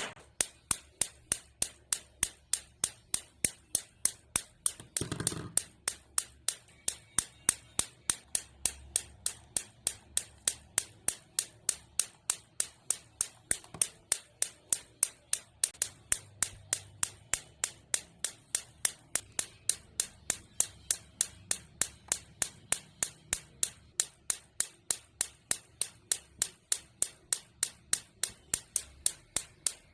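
High-voltage electric sparks snapping in a steady, even series, about three sharp cracks a second.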